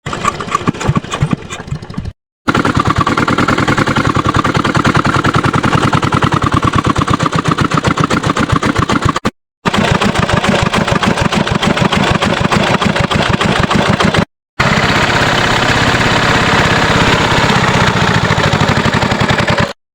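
Chinese diesel engine running with a rapid, even beat of firing strokes after its fuel injection pump plunger has been fitted and set. It is heard in four short stretches with sudden brief cuts between them, and the first two seconds are more uneven.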